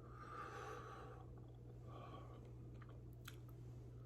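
Near silence over a steady low hum, with faint mouth sounds from someone eating a super-hot snack and a few small clicks about three seconds in.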